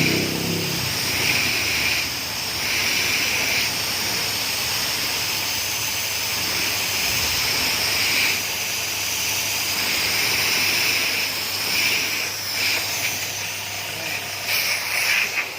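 Steady hiss of a high-pressure car-wash water jet, swelling and fading every second or two as the spray sweeps, over a low steady hum from the pump motor.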